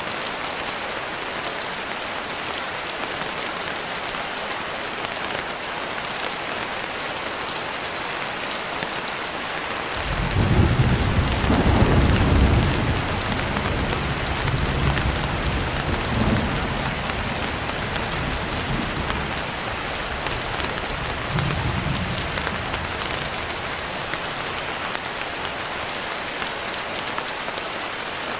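Steady rain falling, with a roll of thunder breaking in about ten seconds in, loudest for a couple of seconds and then rumbling away over the next ten or so.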